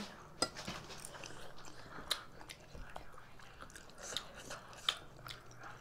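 Chewing and biting on forkfuls of instant noodles and boiled egg, with a few sharp clicks of forks against plates.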